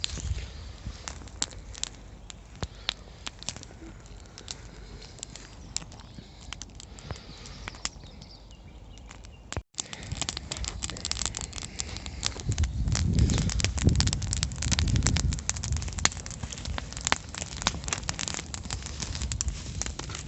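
Wood campfire crackling with many sharp pops and snaps, with a stretch of louder low rumbling in the second half.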